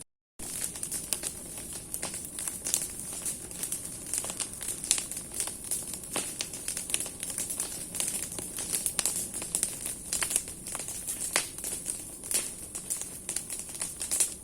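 Large bonfire of burning branches and firewood crackling, with many irregular sharp pops and snaps over a steady high hiss. The sound drops out briefly at the very start.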